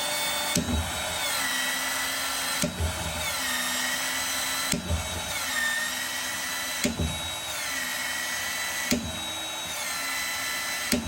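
Battery-powered PEX expansion tool expanding the end of a 1-inch PEX line fitted with an expansion collar, working in repeated cycles about two seconds apart. Each cycle starts with a clunk, then the motor whines and drops in pitch as it pushes the jaws open.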